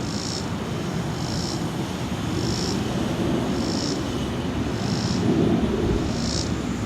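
Jet airliners passing overhead, their engines making a steady deep rumble, two planes heard at the same time. A short high chirp repeats about once a second over the rumble.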